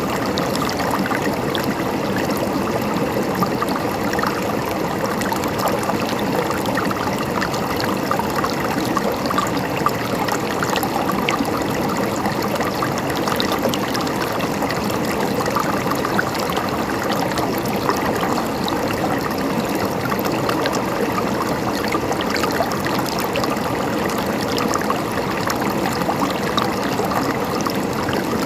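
River water flowing and gurgling steadily over stones, with constant splashing and no pauses.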